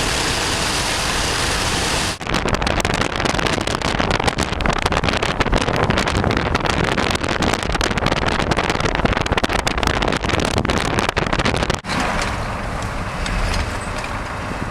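Road noise from a moving vehicle, with wind buffeting the microphone in rough gusts through most of it. The sound changes abruptly about two seconds in and again near the end, where it settles to a steadier, quieter rush.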